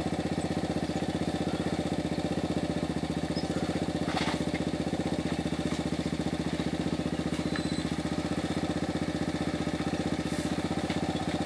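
Dirt bike engine idling steadily, with a short knock about four seconds in and another near the end.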